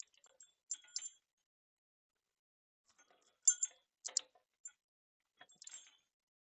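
Scattered light metallic clinks and taps of metal parts and tools being handled. They come in small clusters: about a second in, a sharper, louder group at three and a half to four seconds, and a softer one near six seconds.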